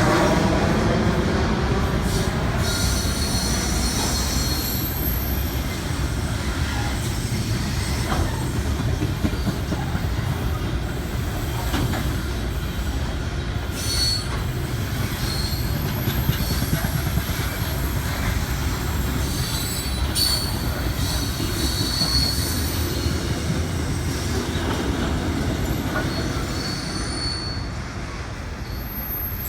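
Steel freight train's wagons rolling past at close range: a continuous rumble of wheels on rail with knocks at the rail joints and intermittent high-pitched wheel squeal. The rumble eases a little near the end.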